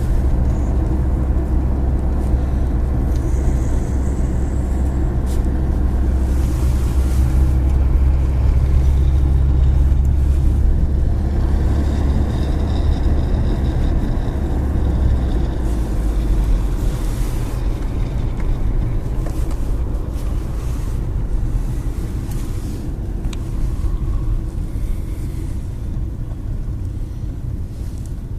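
Car interior while driving: steady engine and road rumble, a low drone that drops lower and eases a little past halfway.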